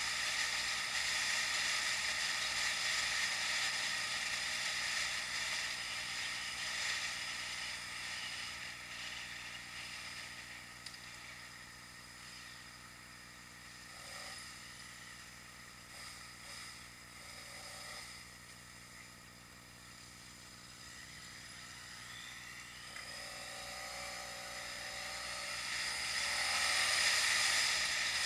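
Steady rushing wind and riding noise on a bike-mounted action camera. It fades somewhat in the middle and swells again near the end as the speed changes.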